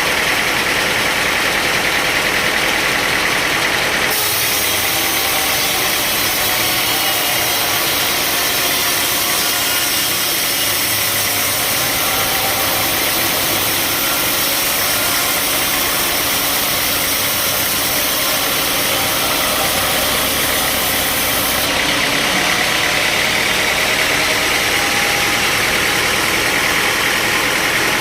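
Sawmill machinery running steadily, with an engine-like drone. A brighter, hissing layer joins from about four seconds in and drops away about six seconds before the end.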